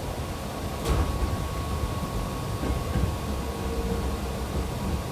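Hankyu 6300 series electric train heard from inside the car as it runs: a steady low rumble of wheels on rail, with a sharp click a little under a second in and a faint steady whine.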